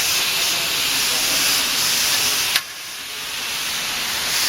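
Steady hissing noise, broken by a sharp click about two and a half seconds in, after which it drops away and slowly builds back up.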